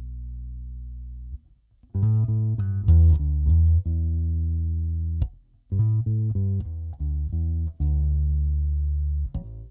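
Epiphone EB-0 SG electric bass played: a held low note dies away about a second and a half in, then two short phrases of plucked notes follow, each a run of low notes with a few sustained ones, with a brief gap between them.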